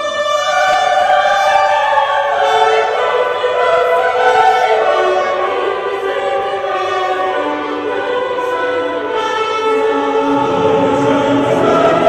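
Classical choral music: a choir singing long held notes, with more low notes joining about ten seconds in.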